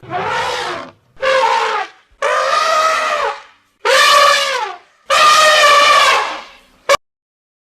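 An animal calling five times in a row, each call a loud pitched cry of about a second that falls in pitch at its end, followed by a short click.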